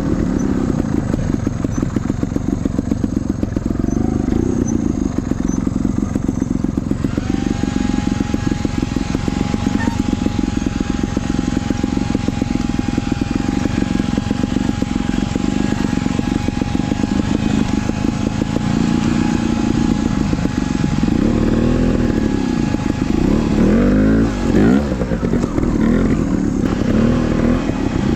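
Trials dirtbike engine running at low revs, with repeated throttle blips rising and falling in pitch over the last several seconds.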